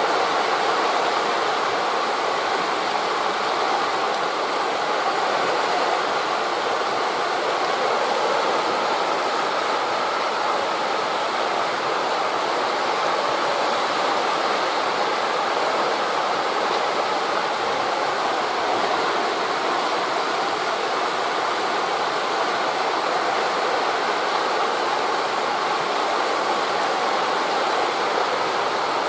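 Steady wind through trees blended with the wash of distant sea waves, an even rushing that holds the same level throughout with no separate breakers standing out.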